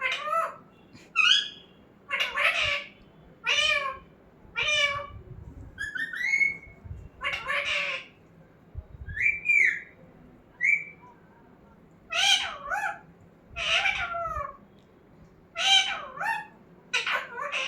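Pet parrot calling in a series of short, pitched calls, about one a second with brief pauses, the pitch bending up and down within each call.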